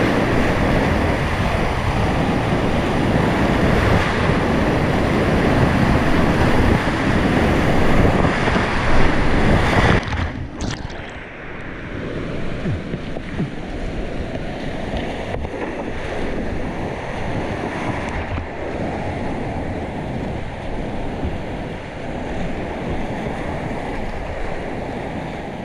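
Rushing whitewater of a mountain-river rapid, a loud steady roar of churning water. About ten seconds in it suddenly turns duller and a little quieter, the high hiss dropping away while the low rush carries on.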